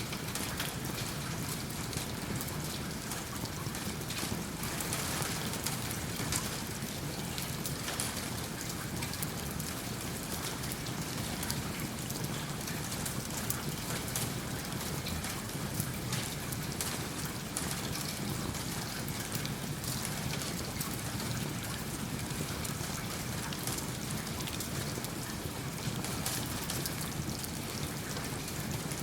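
Steady rain falling, mixed with the crackle of a wood fire in a fireplace: an even hiss dotted with many small ticks.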